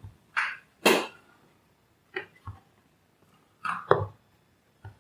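A handful of short knocks and scrapes, about five in all, from tools and parts being handled on a repair bench, with dead silence between them.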